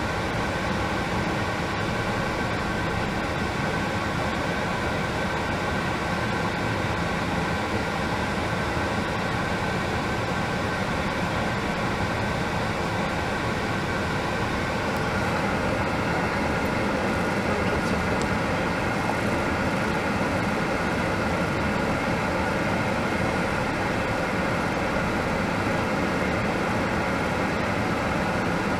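Coal train's hopper wagons rolling steadily past a level crossing, a continuous noise of steel wheels running on the rails, heard from inside a car's cabin.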